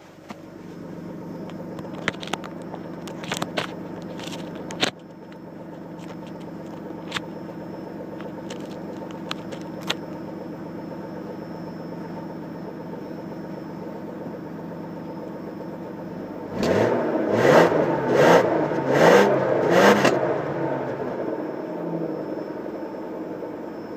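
2001 Ford Taurus's 3.0-litre overhead-valve V6 idling steadily while it warms up after a cold start, with a few sharp clicks in the first five seconds. From about two-thirds of the way in, a louder stretch of about four seconds of repeated surges that rise and fall in pitch.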